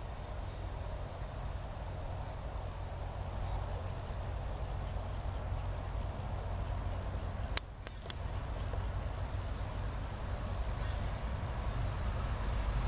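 Low, steady rumble of an approaching diesel-hauled freight train, growing slowly louder. Two sharp clicks come about two-thirds of the way through.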